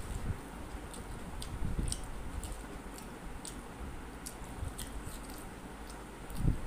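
Close-up eating sounds: chewing mutton curry with wet mouth smacks and a scattering of small irregular clicks, and a soft low thump near the end.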